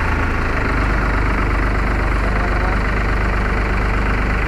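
Truck engine running steadily with a low hum; its pitch shifts slightly under a second in.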